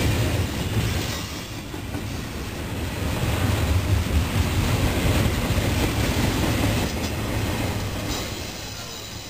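Double-stack intermodal well cars of a freight train rolling past close by: a steady, loud rumble and clatter of steel wheels on the rails.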